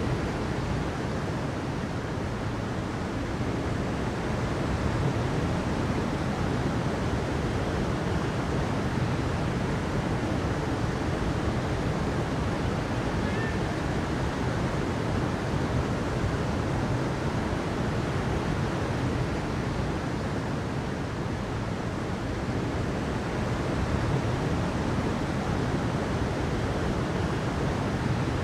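Steady rushing water, an even, unbroken wash of noise with no distinct events.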